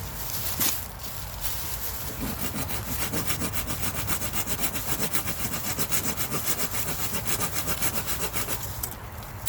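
Hand saw cutting through a fallen branch, in quick, even back-and-forth strokes at about three to four a second. The sawing starts about two seconds in and stops shortly before the end.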